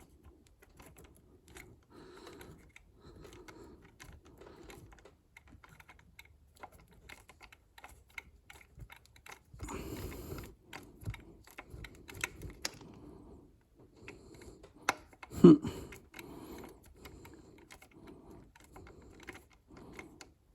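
Small scattered metallic clicks and taps of a 1/4-inch drive driver handle and T15 Torx bit turning the throttle plate bolts, with a louder knock about fifteen seconds in.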